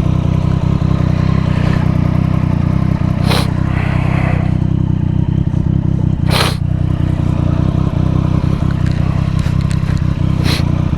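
Yamaha FZ-07 parallel-twin motorcycle engine running steadily at an even speed. Three sharp clicks or knocks sound over it, about three, six and ten seconds in.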